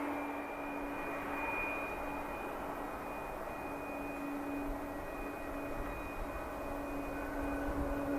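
Airliner engines running steadily: a rushing noise with a low hum and a thin high whine, neither rising nor falling much.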